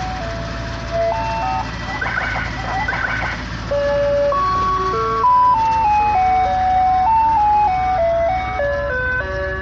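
Ice cream truck jingle playing a simple electronic melody, one note at a time, over a low steady rumble.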